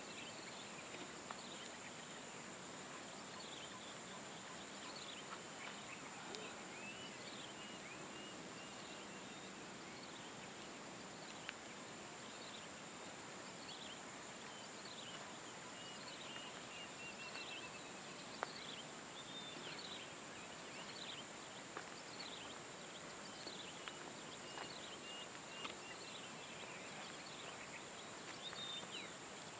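Faint outdoor nature sound: a steady high-pitched insect drone with many short, falling bird-like chirps throughout and an occasional click.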